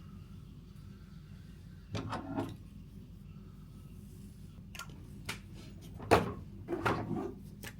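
Several knocks and clunks over a low steady hum, the loudest about six seconds in.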